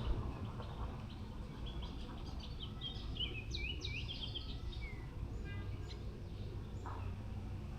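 A songbird singing a quick run of high, twisting chirps about two seconds in, lasting a few seconds, over a steady low background noise.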